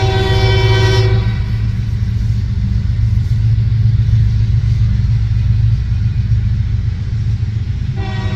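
Diesel freight locomotive's air horn sounding a chord that cuts off about a second in, leaving the loud steady rumble of the passing train. The horn sounds again near the end.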